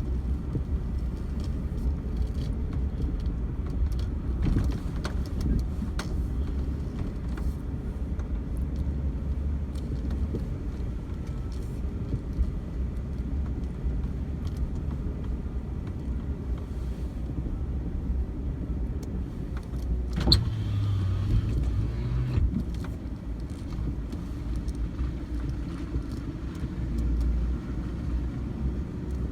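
A vehicle driving along, heard from inside: a steady low rumble with scattered rattles and clicks, and a sharper knock about two-thirds of the way through.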